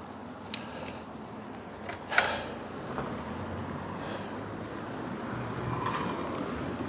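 Passing car traffic on a narrow road heard from a bicycle, the tyre and engine noise swelling from about halfway through as cars approach. A sharp click comes early on and a short, loud sound just after two seconds.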